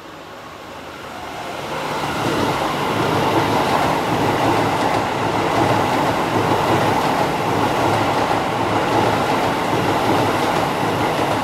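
A Keisei stainless-steel electric commuter train passing through the station at speed without stopping, its wheels and motors running on the rails. It builds over the first two seconds, stays loud as the cars go by, and eases off at the very end.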